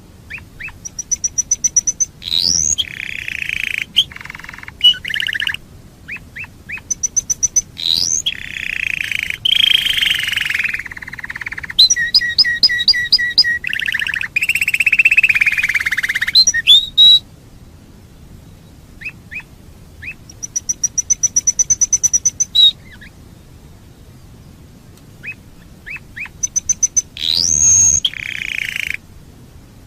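Domestic canary singing: fast trills, rapidly repeated notes and quick rising whistles, in bursts of song with short pauses between them.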